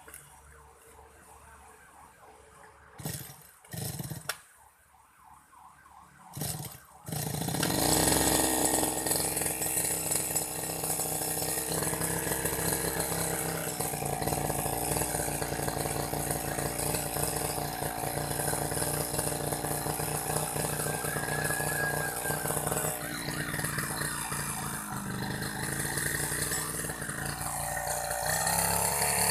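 Gasoline grass-cutter engine: three short bursts, then about seven seconds in it catches and runs steadily and loudly, its pitch shifting a few times as it is throttled.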